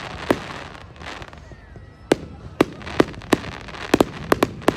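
Fireworks display: aerial shells bursting with sharp bangs. One bang comes near the start, then after a short lull about eight more bangs follow in quick succession.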